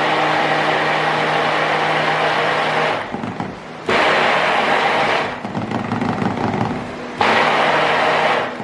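Small handheld electric mixer running as it blends blue colorant into soap batter, in three runs: a long one, a short one about a second later, and another near the end, with quieter pauses between them.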